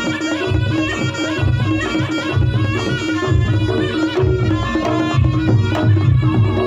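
Reog Ponorogo gamelan music in a campursari langgam: a reedy shawm melody, the slompret, played over quick kendang drum strokes and a steady low gong-chime tone.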